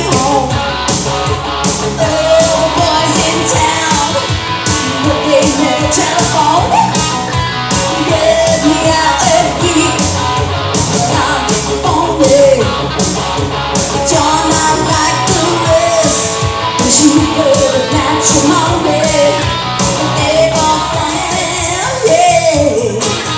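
Live rock music: a singing voice over guitar and a steady beat.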